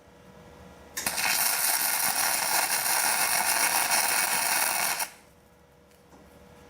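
Welding arc crackling steadily for about four seconds, starting about a second in and cutting off sharply: a nut being welded onto a locking wheel lug nut so that it can be turned off.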